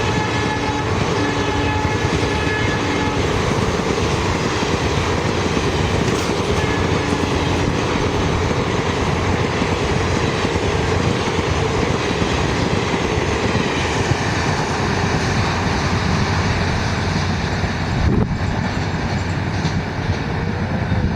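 Horn of an EMD WDP4 diesel locomotive sounding for about three seconds and again briefly a few seconds later. Then comes the steady rushing rumble and wheel clatter of a passenger train passing at speed.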